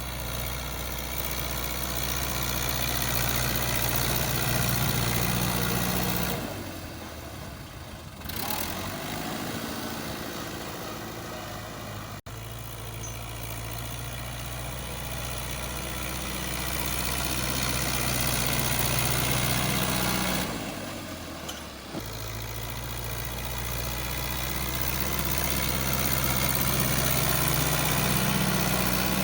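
Fiat 640 tractor's diesel engine running steadily at working speed, its level swelling and easing, with the engine sound dropping away twice for a second or two.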